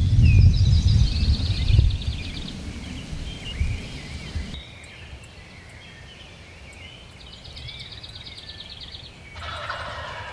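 Wild turkey gobbling, a rapid rattling gobble near the end, with songbirds trilling high above and low rumbling noise in the first two seconds.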